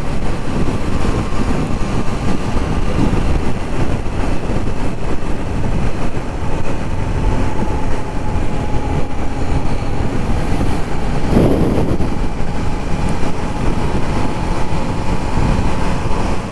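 Triumph Trident 660 motorcycle at highway speed, heard from the rider's seat: steady wind rush on the microphone over engine and road noise, with a faint steady whine from about six seconds in.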